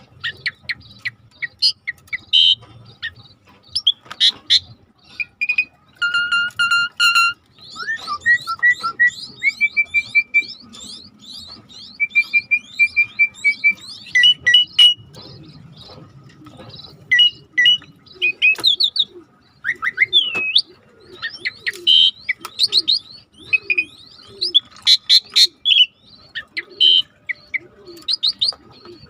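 Starling song among other birds: quick chirps, whistled notes and rapid trills following one another without a break, over a low steady rush of river water. In the second half a low, falling call repeats about once a second.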